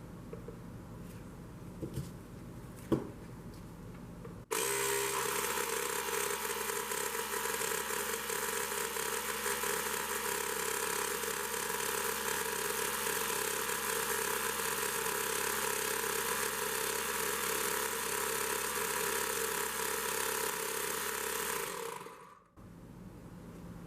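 Milwaukee cordless tire inflator's compressor switched on, running steadily for about seventeen seconds, then winding down and stopping, after a few small clicks and knocks. The inflator no longer builds air pressure and something inside is broken.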